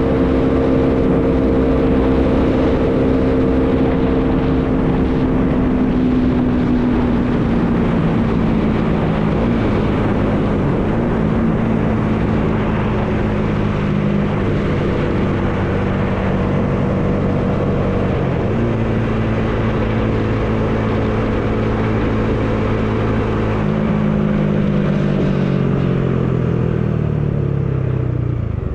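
Bajaj Dominar 400's single-cylinder engine pulling steadily under way, with wind noise. The engine note drops a little several seconds in, holds, then falls away near the end as the bike slows.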